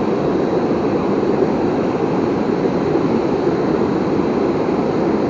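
Waterfall: a steady, unbroken rush of falling river water.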